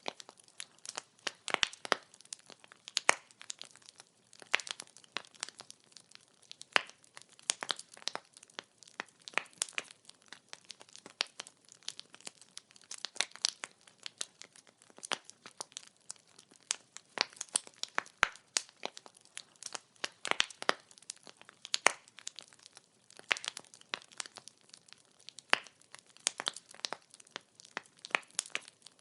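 Wood fire crackling: frequent irregular sharp pops and snaps of burning firewood over a faint hiss.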